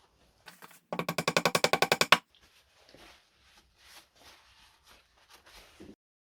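A rapid run of sharp, slightly ringing clicks, about a dozen a second for just over a second, followed by faint scattered knocks and rustles.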